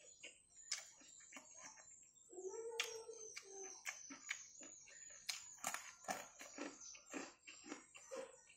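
Close-up eating by hand: crunching and chewing of crispy fried intestine chips, with lip smacks and clicks of fingers in the food throughout. About two and a half seconds in comes a single drawn-out, meow-like call just over a second long.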